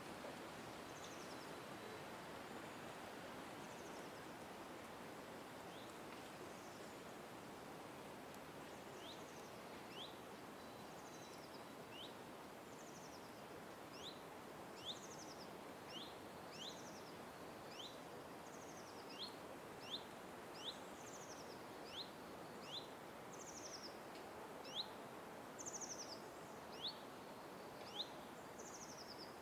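Birds calling in short, sharp chirps, sparse at first and then about one a second from roughly a third of the way in, over a steady background hiss of outdoor noise.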